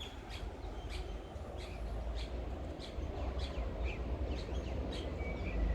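Outdoor birdsong: many short, high chirps and a few brief sliding notes from several small birds, over a steady low rumble.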